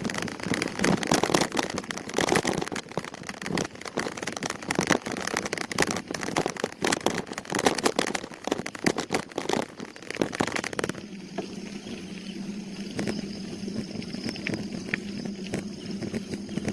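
Wind buffeting and rattling noise on the microphone of a moving bicycle, crackling and uneven. About eleven seconds in it stops suddenly, leaving a quieter, steady low hum.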